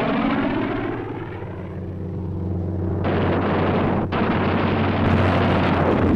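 A fighter plane's engine sweeps past with its pitch falling, then gives way to a dense rushing roar of explosion and engine noise. The sound changes abruptly about three seconds in and drops out briefly near four seconds, like a splice in an old film soundtrack, over a steady low hum.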